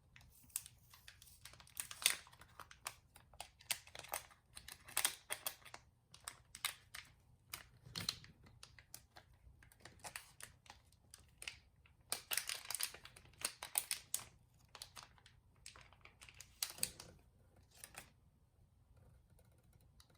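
Hands and small tools working on a Nintendo Switch's parts during a fan swap: irregular clicks, taps, scrapes and crinkling, in clusters with short pauses between.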